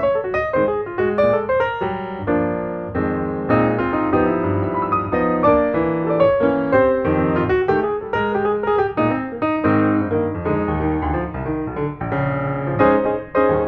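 Background music: solo piano playing a flowing melody over sustained chords.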